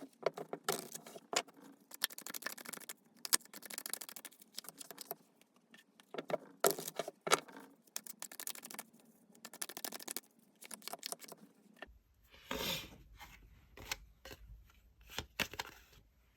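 Tarot cards being shuffled and handled: rapid flicking, rustling and sliding of card stock. About 12 s in, a low hum comes in and the card sounds become sparser and separate.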